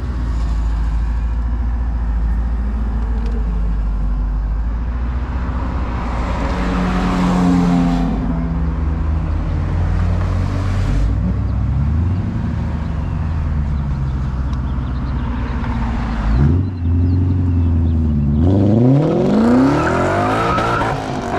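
Mitsubishi Lancer Evolution X's turbocharged four-cylinder engine running steadily under way, rising and falling in pitch midway. Near the end it dips briefly, then revs up with a strong rise in pitch as the car accelerates.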